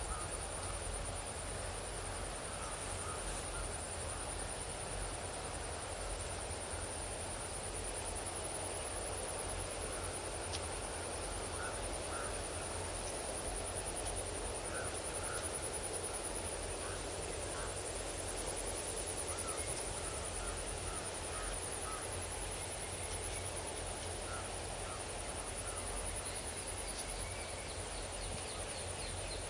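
Outdoor rural field ambience: a continuous high, pulsing insect buzz, scattered faint short chirps and a low wind rumble. Near the end a quick series of high ticking notes starts.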